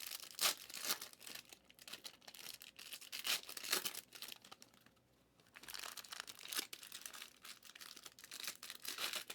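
Trading cards and their plastic packaging being handled, in scattered crinkling and rustling, with a brief pause about halfway through.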